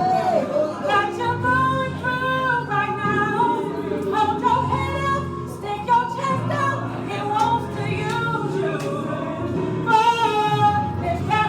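A woman singing a gospel song with melismatic held notes over instrumental accompaniment.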